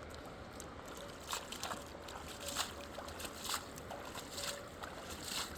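River water running steadily, with several sharp splashes and sloshes in the water about a second apart.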